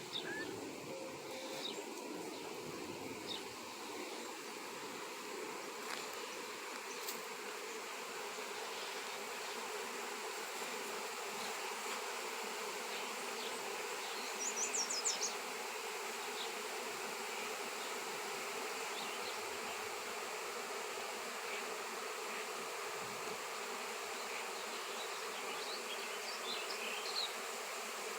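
A swarm of honey bees buzzing, a steady, unbroken hum. A brief cluster of high chirps cuts in about halfway through, with a few fainter ones near the end.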